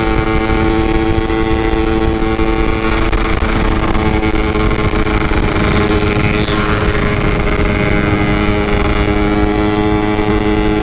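Yamaha RX-King's single-cylinder two-stroke engine running at steady high revs while riding, its pitch holding level, with wind rumble on the microphone.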